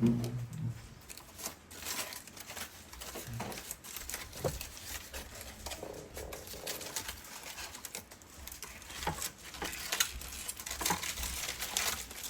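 Scattered clinks, taps and scrapes of dishes and serving utensils as food is put onto plates.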